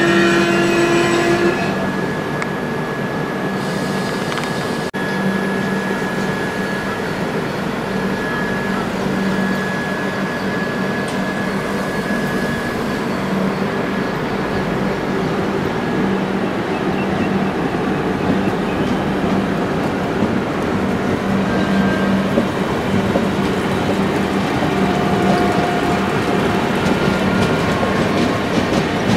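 Express train of LHB passenger coaches running past at speed: steady rumble and rattle of wheels on rails, with some faint held tones from the wheels and running gear.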